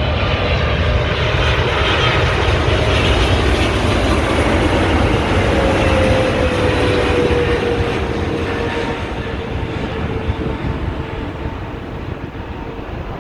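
Boeing 777 jet engines roaring as the airliner passes low on its landing approach. A whine in the roar drops in pitch as the plane goes by, and the sound fades over the last few seconds.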